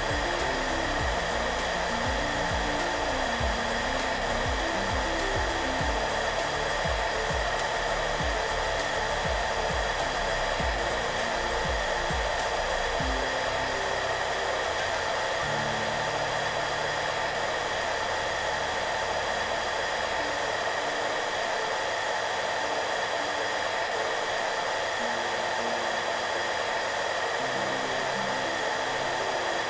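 Hair dryer running steadily: a constant, even blowing hiss with a steady hum in it and no change in speed. Soft low music notes play underneath, thinning out about halfway through and coming back near the end.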